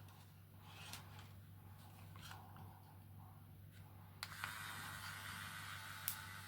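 A 3D pen's button clicks about four seconds in and its filament-feed motor starts a faint, steady whir as it extrudes filament; a few soft handling clicks come before it.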